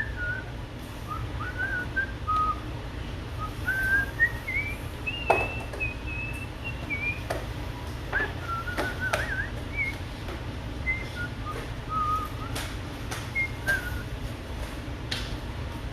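A person whistling a wandering, tuneless melody in short phrases, with a few sharp clicks and a steady low hum underneath.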